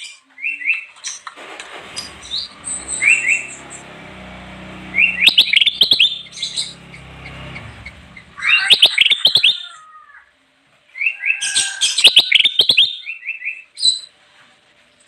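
A kutilang emas (a bulbul) singing in bursts of quick chirping notes, about five phrases with short pauses between them. A low rumbling noise runs beneath the song from about a second and a half in until past the middle.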